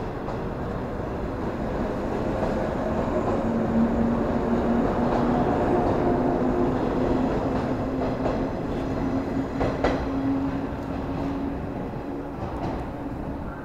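JR West 113 series electric train moving along the platform track: a rumble that swells and then eases, with steady humming tones and one sharp clank about ten seconds in.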